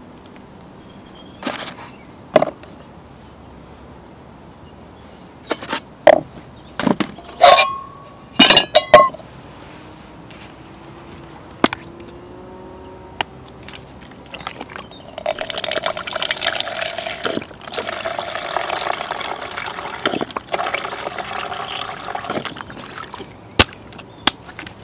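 A series of sharp clinks and knocks of cookware, a few with a brief metallic ring, then liquid being poured steadily for about seven seconds, starting a little past the middle.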